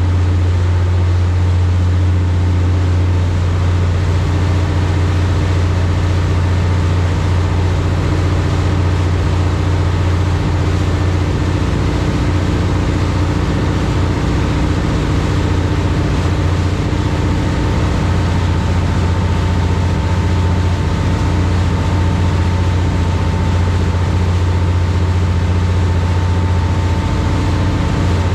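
High-speed passenger boat's engines droning steadily under way, heard on board: a loud, even low hum over a steady rushing noise, with a faint higher whine coming in about halfway through.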